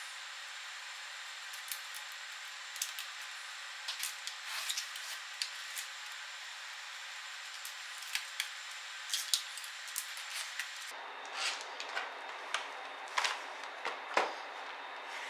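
Scattered light clicks and taps of small laptop parts, screws and plastic pieces being handled during disassembly, over a steady hiss.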